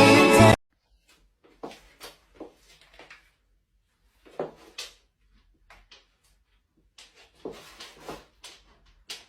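Music cuts off about half a second in, followed by scattered light knocks and clicks coming a few at a time, with more of them near the end.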